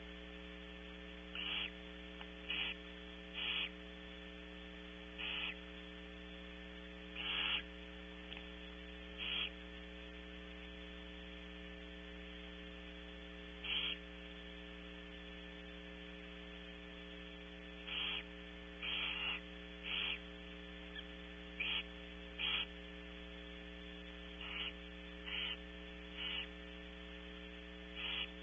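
Steady electrical mains hum with about fifteen short, hoarse hisses from barn owls, scattered irregularly and each under half a second: the food-begging hisses of nestlings during a feeding.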